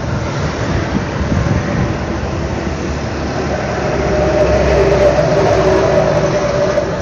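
Steady vehicle running noise with a held mid-pitched tone that swells louder about four seconds in.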